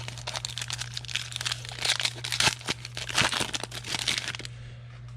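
Foil wrapper of a trading-card pack crinkling as it is torn open and handled: a dense run of irregular crackles that dies down about four and a half seconds in. A steady low hum runs underneath.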